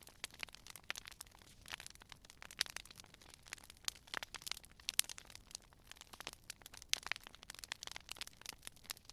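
Campfire crackling: irregular sharp pops and snaps of burning wood, several a second, with a soft hiss beneath.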